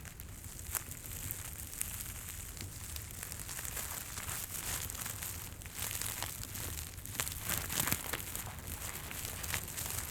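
Irregular crackling and crinkling with scattered sharp pops over a steady low hum and a soft hiss, like a fireplace crackling or crinkly material being handled close to the microphone.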